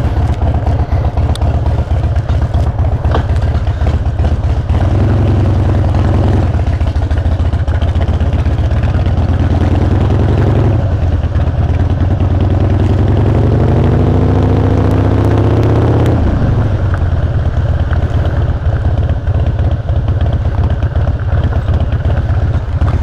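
Harley-Davidson V-twin motorcycle engine under way, revving up twice with a long climb in pitch that drops off sharply about two-thirds of the way through. It is picked up by a helmet-mounted GoPro mic, and the rider says the recording is clipping.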